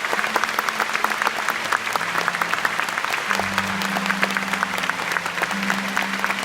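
A large concert-hall audience applauding, a dense steady clapping.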